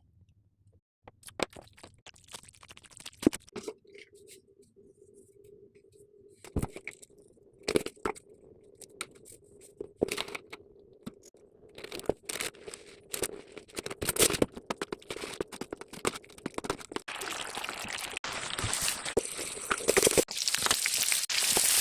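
Cooking sounds: scattered clicks and knocks of kitchenware over a faint steady hum, then the sizzle of food frying in hot oil, building and growing louder from about three-quarters of the way in.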